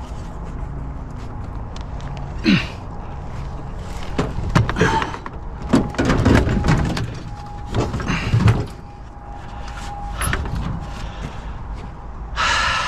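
Metal scrap being handled: a series of clanks and bangs spread over several seconds, with a scraping screech near the end, over a steady low hum.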